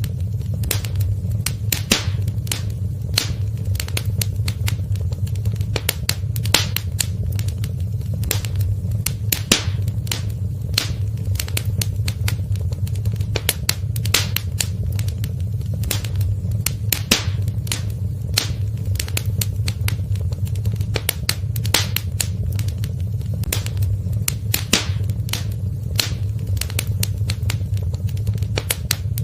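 Wood fire in a fireplace crackling, with many sharp pops and snaps several times a second over a steady low rumble of the flames.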